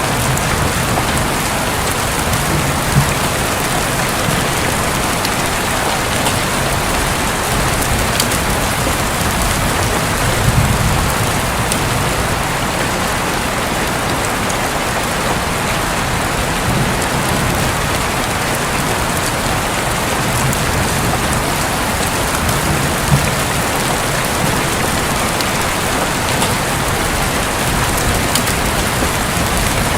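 Steady rain pouring on a roof, with a few brief low rumbles of thunder.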